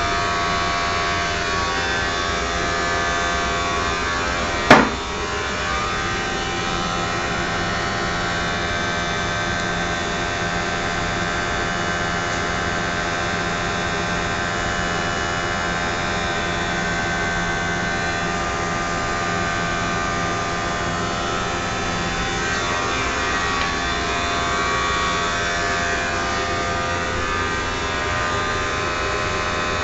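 Triangle blower motor running steadily, a continuous mechanical whir with several steady tones in it. A single sharp knock sounds about five seconds in.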